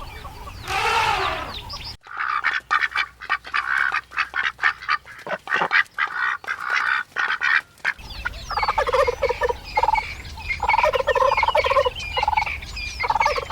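A flock of domestic waterfowl calling. About two seconds in come many short, rapid, overlapping calls. From about the middle onward there is a run of repeated, harsh, pitched honks.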